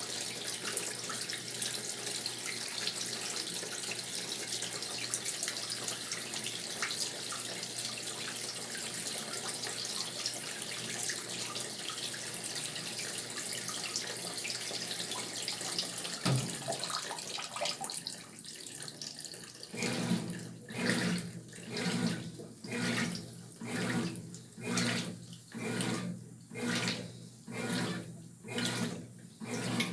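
Brastemp Tira Manchas Pro 12 kg top-loading washing machine filling with water, a steady rushing hiss. The water inlet shuts off partway through, and the wash action starts, the load sloshing back and forth in a regular rhythm about once every second or so.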